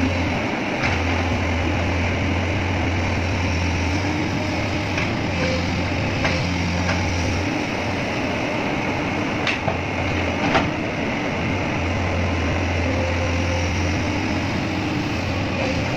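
Excavator's diesel engine running steadily with a low hum, with a few short sharp knocks about one and five to ten seconds in.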